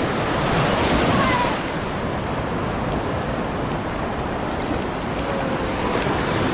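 Sea surf breaking and washing up the beach in a steady rush, with faint voices in the background.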